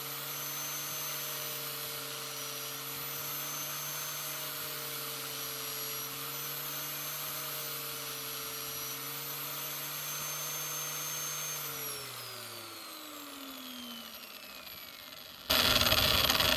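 Electric grinder motor running steadily with a high whine, then switched off about twelve seconds in and spinning down, its pitch falling over a few seconds. Near the end a sudden loud, harsh noise starts.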